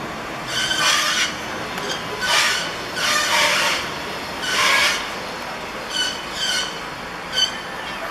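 City bus giving off a series of high-pitched squeals: several half-second-long squeals in the first five seconds, then shorter chirps.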